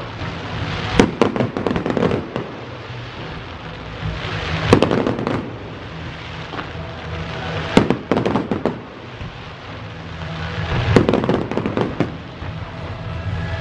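Fireworks display: four loud shell bursts about three seconds apart, each followed by a rapid spray of crackling.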